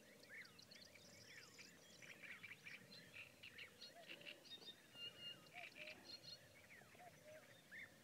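Faint chorus of small birds chirping and calling: many short overlapping notes sliding up and down, with a few lower calls now and then.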